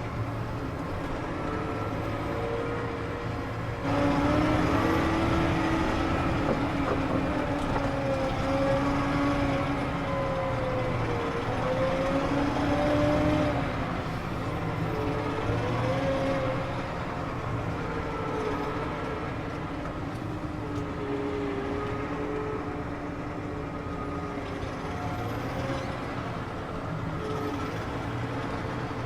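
New Holland T7 315 tractor's six-cylinder diesel engine running, its pitch wandering up and down. About four seconds in it gets louder, with a lower note added, and it eases back about ten seconds later.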